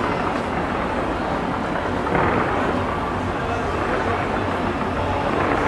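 Fireworks heard from the ground: a continuous rumble of many overlapping bangs, with a louder surge about two seconds in.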